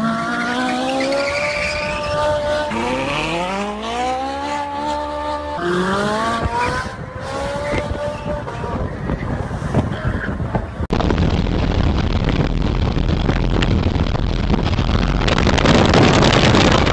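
A car engine accelerating hard, its pitch rising through each gear and dropping at the shift, three pulls in a row. About eleven seconds in the sound cuts to a louder, steady rushing noise of road and wind, strongest near the end.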